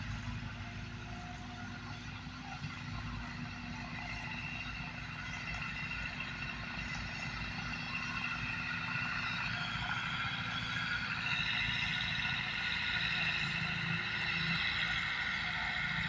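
Tractor engine running steadily, growing louder from about halfway through.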